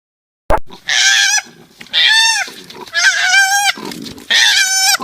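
A farm animal calling four times in a row, each call short and high-pitched, about a second apart, starting just after a click about half a second in.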